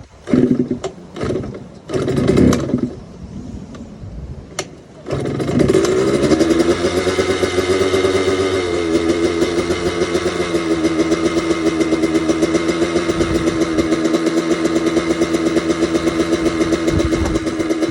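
2004 KTM 85 big wheel's 85cc two-stroke single being kick-started from cold. A few short bursts and a click come first, then about five seconds in the engine catches and runs fast, and its pitch drops in two steps to a steady idle.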